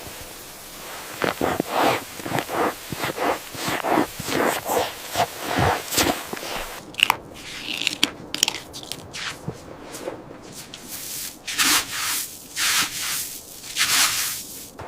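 Crunching footsteps in snow, about two steps a second for several seconds. Then scattered squeaks, and a few longer hissing scrapes near the end.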